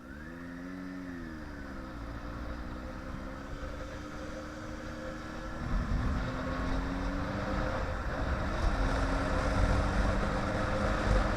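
Motorcycle engine under way: the revs rise and drop back in the first two seconds, then climb steadily, with a gear change about eight seconds in. Wind rushes over the microphone and grows louder as the bike speeds up.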